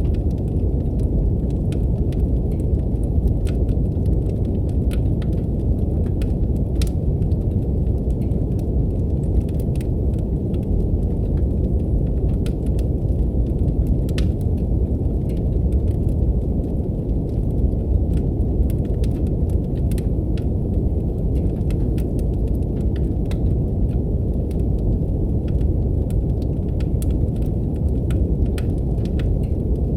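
Steady, deep brown noise with a wood fire crackling on top: many small, irregular pops and snaps scattered throughout.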